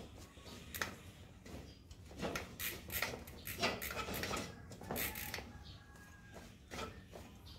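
Irregular clicks, knocks and light scrapes of hand work on bicycle parts and tools during an overhaul.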